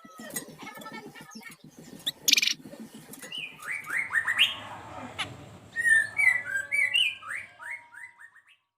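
Flamboyan (wergan jawa) songbird singing a quick run of short chirping notes, starting about three seconds in and breaking off shortly before the end. A brief loud rasping burst comes about two seconds in.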